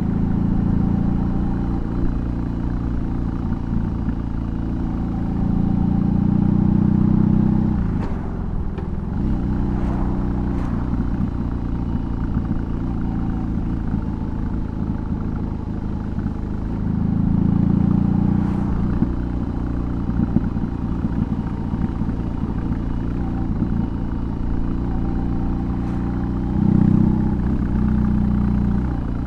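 BMW R18's 1802 cc boxer twin running through a custom exhaust while riding. It grows louder under throttle a few times, and its note dips and recovers about eight seconds in.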